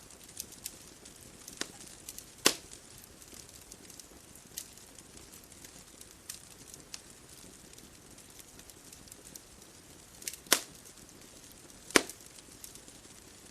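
Wood bonfire crackling: scattered small clicks over a soft steady hiss, with three loud pops, one about two and a half seconds in and two close together near the end.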